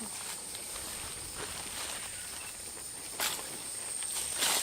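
Steady high-pitched insect drone in rainforest, with two brief rustles near the end.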